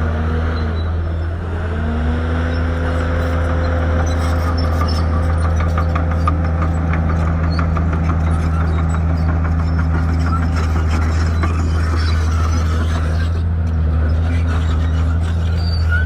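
Shantui bulldozer's diesel engine running steadily under load, its note dipping about a second in and then climbing back up. A run of clicks and knocks in the middle.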